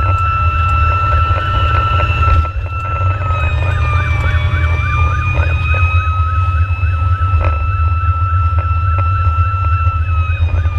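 Fire engine sirens during an emergency response: an electronic siren yelping rapidly over a steady high siren tone that sags a little midway and drops near the end. Heavy low engine and road rumble runs underneath.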